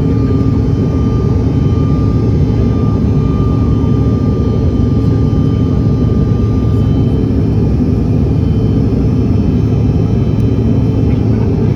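Steady jet engine and airflow drone heard inside an airliner cabin, with a faint high whine that fades out about four seconds in.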